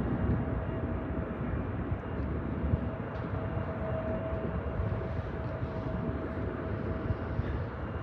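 Jet airliner engines running: a steady rumble with a thin, steady whine above it.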